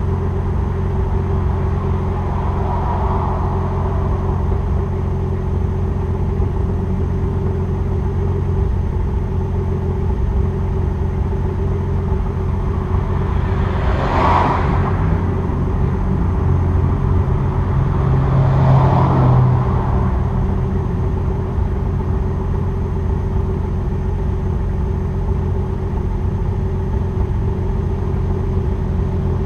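2002 Nissan Maxima SE's 3.5 L VQ35DE V6 idling steadily during its cold-start warm-up, heard through an exhaust with equal-length headers, stock catalytic converter, straight pipe in place of the resonator, and a muffler. Two brief louder swells come through about halfway through.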